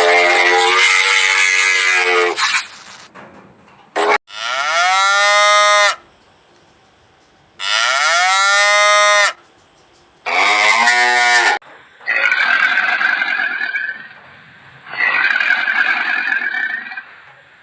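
Farm animals calling: a string of about six separate drawn-out calls, the middle ones rising in pitch, with short gaps and changes of recording between them.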